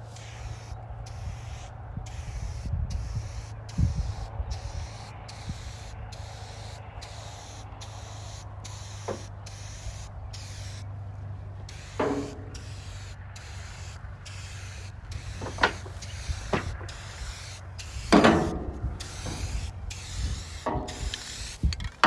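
Rust-Oleum Turbo Can aerosol spray paint hissing in passes over a low steady hum, with a few sharp knocks in the second half, the loudest about 18 seconds in.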